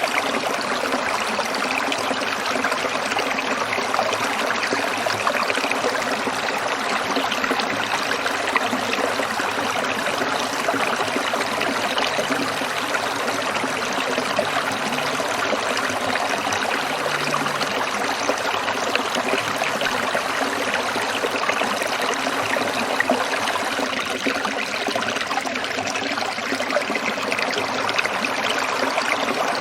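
Stream water trickling and splashing over rocks in an even, unbroken rush.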